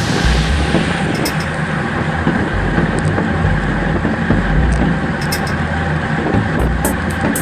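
Strong wind buffeting the microphone in irregular low gusts.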